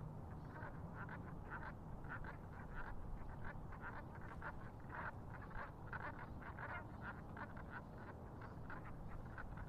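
A flock of water birds calling: a busy run of short, overlapping calls, several a second, over a low steady rumble.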